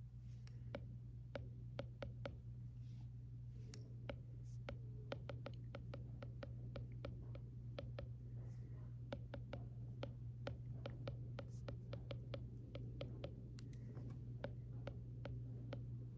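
Stylus tapping and scratching on an iPad screen in handwritten note-taking: a quick, irregular run of light clicks, several a second. A steady low hum runs underneath.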